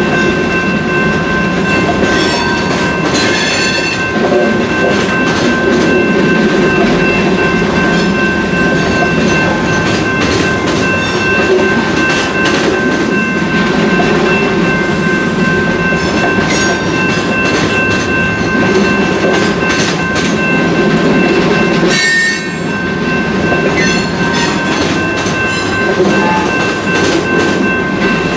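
Freight train boxcars rolling past, wheels rumbling and clacking over rail joints, with a steady high-pitched flange squeal as the cars take the curve of the wye.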